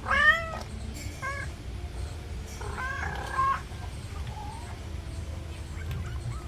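Young kittens mewing: three high-pitched mews, a half-second one at the start, a short one about a second in, and a longer one around three seconds in.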